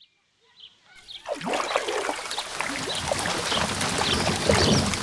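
Rain falling, a dense hiss of many small drops and splashes that comes in out of silence about a second in and carries on steadily.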